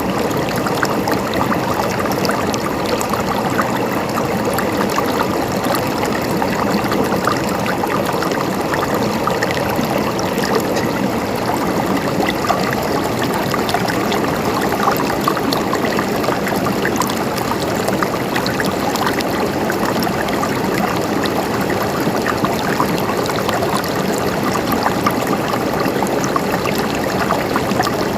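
Running water trickling and gurgling steadily, with many small splashes.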